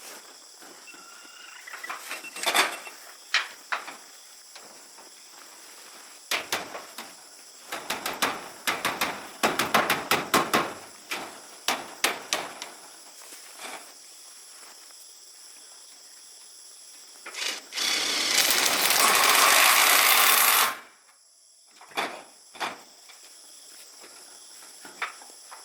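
Building-work noises: scattered knocks and taps, then a loud steady rushing noise for about three seconds that cuts off suddenly, with insects chirring steadily behind.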